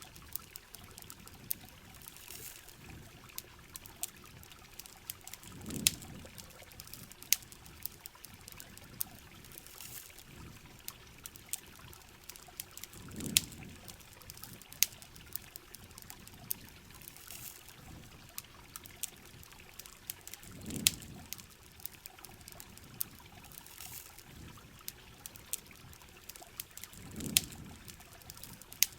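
Steady rain with the sharp, irregular crackle and pop of a campfire. A soft low swell recurs about every seven seconds.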